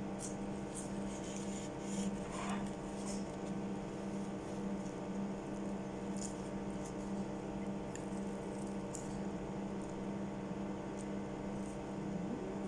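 Chewing of fries and a chicken burger, with scattered soft mouth clicks, over a steady low electrical hum.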